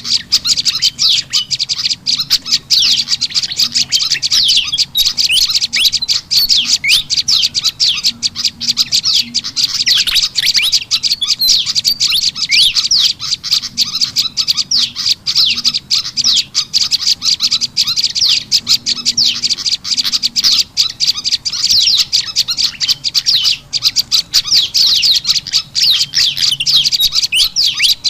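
Bird-lure recording of olive-backed tailorbird calls mixed with pied fantail calls: a loud, unbroken stream of rapid, high, sharply sweeping chirps. The agitated, alarm-like calling is meant to draw wild small birds in.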